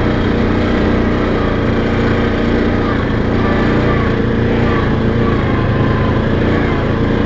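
ATV engine running steadily at an even pitch while riding along a trail.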